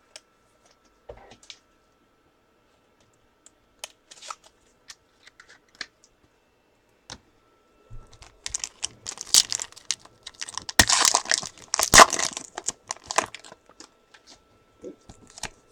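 Trading-card pack wrapper being torn open and crinkled: scattered light clicks and taps at first, then a dense stretch of loud crinkling and tearing lasting about five seconds past the middle.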